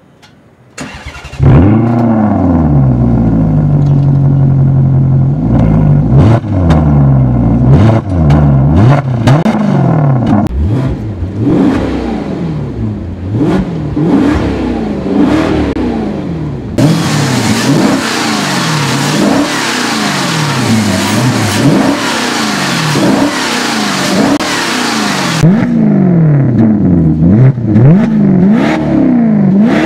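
Maserati GranCabrio's 4.7-litre V8 starting up about a second in and idling briefly. It is then revved hard over and over in short blips, the pitch rising and falling each time, loud throughout.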